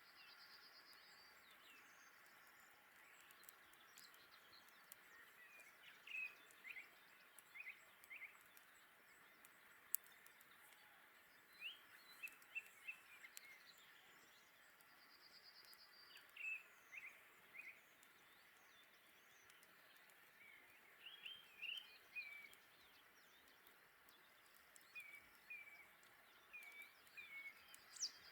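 Faint outdoor ambience: a songbird calling in short bursts of three to five chirps every few seconds, with a buzzy trill at the start, in the middle and at the end. Scattered faint clicks, one sharp click about ten seconds in.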